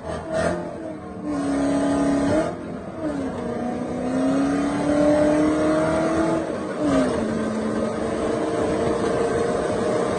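BMW E30's swapped-in 4.0-litre V8 engine pulling under throttle, its note climbing slowly and dropping sharply twice, about two and a half and seven seconds in.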